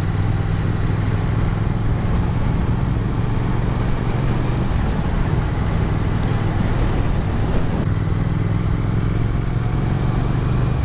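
Motorcycle engine running at a steady speed while riding, under rushing wind noise. The engine note shifts briefly in the middle before settling again.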